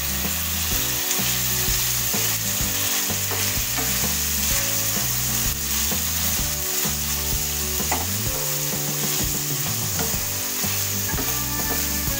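Raw boneless chicken pieces sizzling in hot oil on a tawa, with a wooden spatula stirring them and clicking and scraping against the pan now and then.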